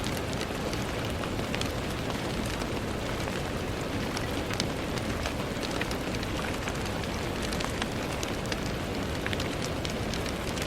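Steady rain on a window: an even hiss with many small, sharp drop taps scattered through it.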